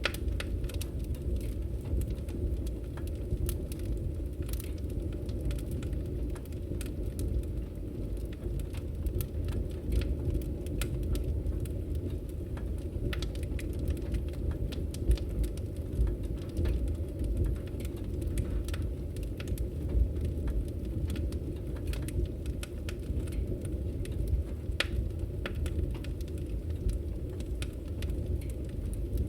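Wood fire crackling in a fireplace: frequent small pops and snaps, with a few sharper ones, over a steady low rumble.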